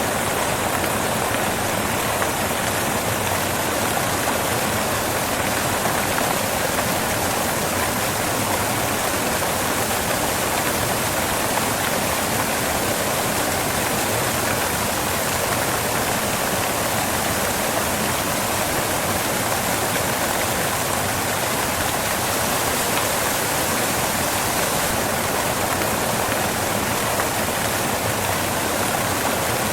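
Waterfall crashing onto rocks: a steady, even rush of falling water.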